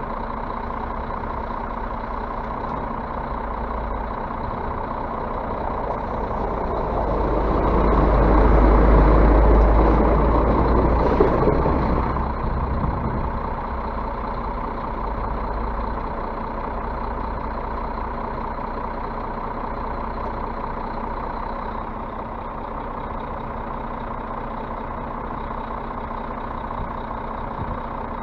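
Scania bus diesel engine running steadily, with a swell of louder noise from about six to thirteen seconds in, then settling back.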